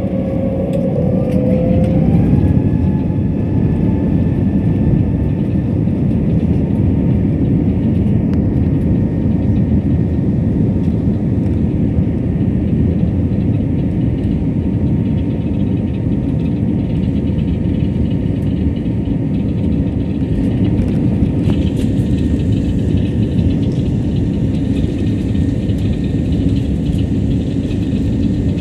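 Airliner jet engines spooling up, a whine rising in pitch over the first two seconds, then holding a loud, steady roar at takeoff thrust.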